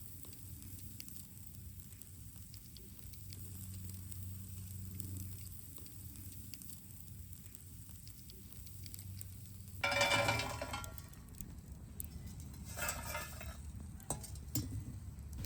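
Campfire cooking: a quiet steady background with faint scattered crackles, then two brief louder bursts of frying sizzle about ten and thirteen seconds in.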